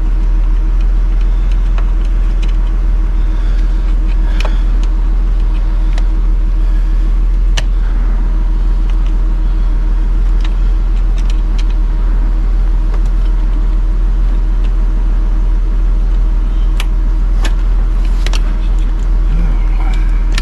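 A steady low rumble with a constant hum, and scattered sharp clicks and scrapes of a screwdriver prying at the old parking-brake switch.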